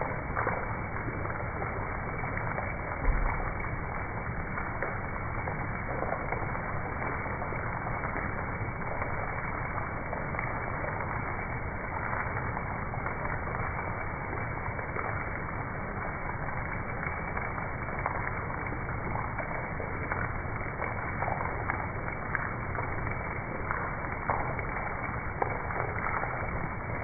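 Heavy rain pouring and splashing on a hard ledge close by: a steady hiss with scattered sharper drop ticks. A single low thump about three seconds in.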